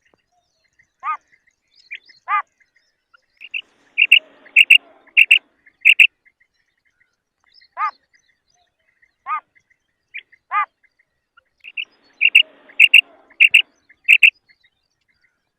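Female common quail calling: single short, falling chirps spaced a second or two apart, and twice a quick run of four or five louder, sharper notes.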